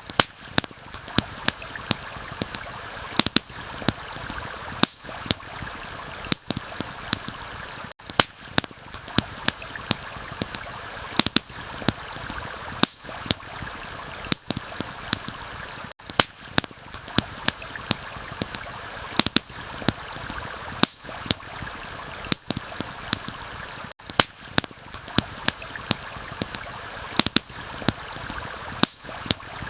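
Campfire crackling, with frequent sharp, irregular snaps and pops, over the steady rush of a stream.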